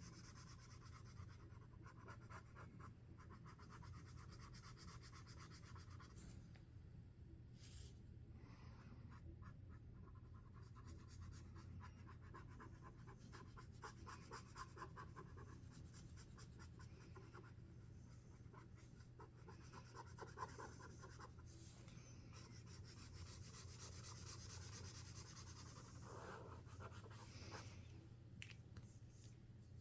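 Sharpie Creative Marker tips stroking and scratching on paper in short, irregular strokes, faint, over a steady low hum.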